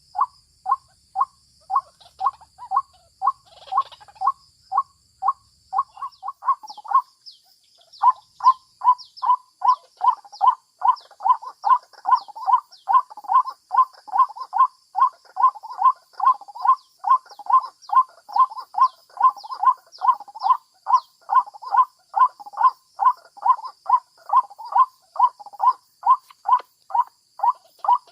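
White-breasted waterhen calling: the same short call repeated monotonously, about two to three a second, with a short break about seven seconds in. A steady high hiss runs underneath.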